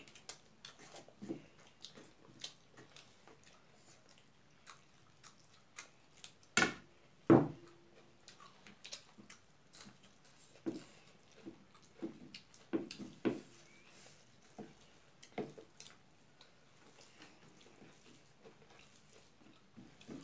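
Close-up mouth sounds of people eating singju salad and rice by hand: chewing, wet smacks and small clicks scattered throughout, with two louder sounds about six and a half and seven seconds in.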